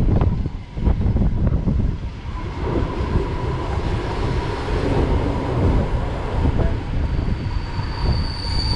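Steam-hauled passenger train's coach rolling slowly into a station: a steady rumble of the wheels on the rails, with a few knocks at the start. A high, steady squeal starts near the end as the brakes go on for the stop.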